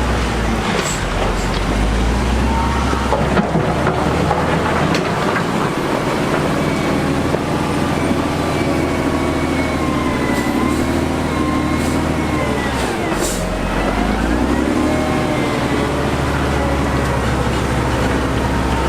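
Heavy construction machinery engine running under load, its pitch wavering and dipping sharply and recovering about two-thirds of the way through.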